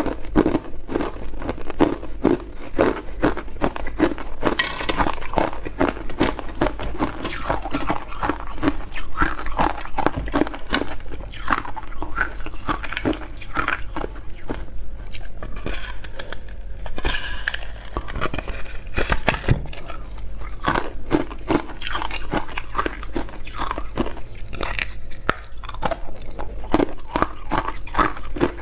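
Hard clear ice being bitten and chewed: continuous loud crunching and cracking, many sharp cracks in quick irregular succession.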